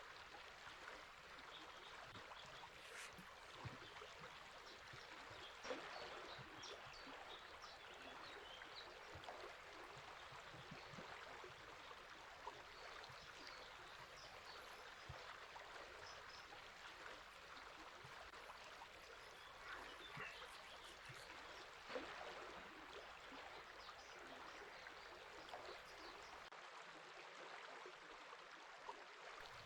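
River water running steadily, with faint scattered high bird chirps and a few brief sharper clicks about 4, 6 and 22 seconds in.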